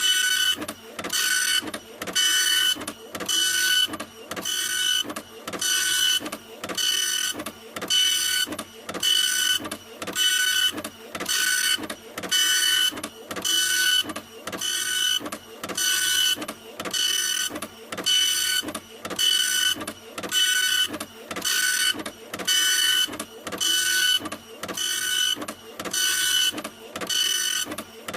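A printer running continuously: its print head sweeps back and forth with a motor whine, in an even rhythm of roughly one pass a second.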